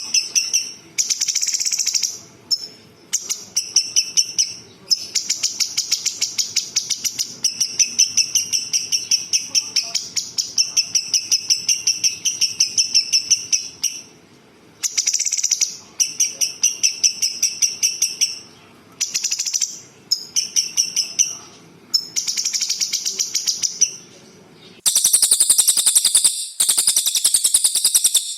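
Songbird song from a recording: phrases of rapid trills made of high repeated notes, about ten a second, broken by short pauses. Near the end comes a higher, denser trill.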